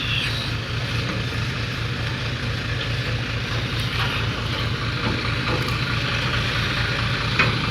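Heavy diesel engine of a truck or excavator running steadily, with one brief click near the end.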